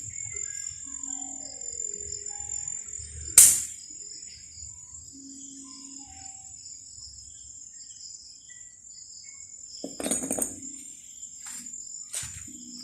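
Hand tools knocking against scooter parts during the repair: one sharp clink about three seconds in and a few lighter knocks near the end. A steady high-pitched insect drone and faint distant music run underneath.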